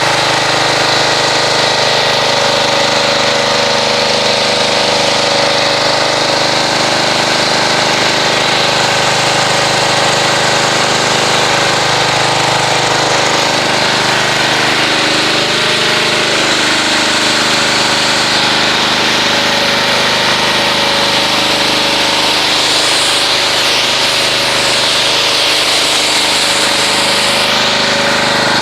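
Pressure washer running steadily, its motor drone under the hiss of the water jet rinsing soap off a car; the hiss shifts in tone near the end as the spray moves across the panels.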